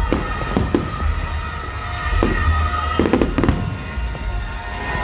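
Fireworks going off: a run of sharp bangs and crackles, thickest about three seconds in.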